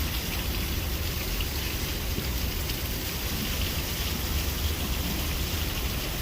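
Heavy rain pouring steadily in a thunderstorm, with a low rumble underneath.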